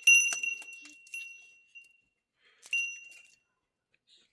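Several sharp clinks of a hard object that rings on after each strike with a clear high tone: a quick cluster at the start, another about a second in, and one more nearly three seconds in, each fading out.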